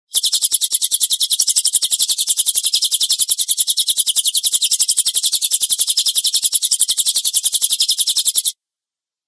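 Recorded songbird call: a harsh, rapid machine-gun train of high chattering notes, about ten a second. It is the 'tembakan kasar' bird-training call, and it cuts off suddenly near the end.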